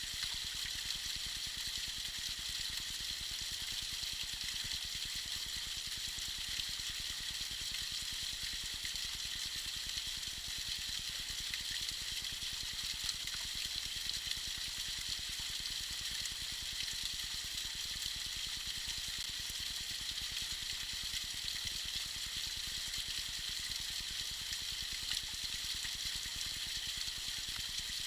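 Small waterfall trickling and splashing steadily, the water's sound bright and hissy.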